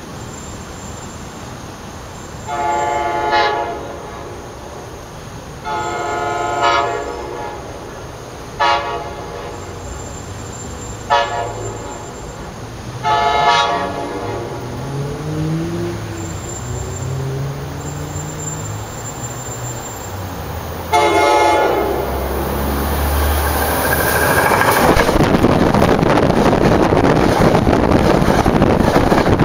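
An electric passenger train's multi-tone horn sounds a series of blasts as it approaches: two long, two short and one long, then one more about twenty seconds in. After that the train runs directly over the track-level microphone with a loud, building rumble of wheels on rail.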